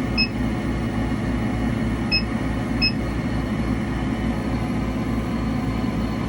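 Engraver running with a steady low grinding hum that pulses rapidly. Three short high beeps come near the start and at about two and three seconds in.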